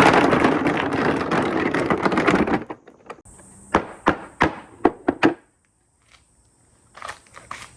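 Many marbles clattering and rattling down a marble run track in a dense, continuous rush that cuts off abruptly, followed by a run of about six separate sharp clacks and, near the end, a few faint clicks.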